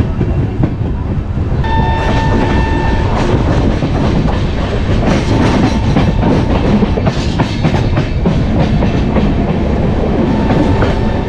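Moving passenger train's wheels clattering and rumbling over the rails, heard from the open coach door, a steady clickety-clack with a brief high steady tone about two seconds in.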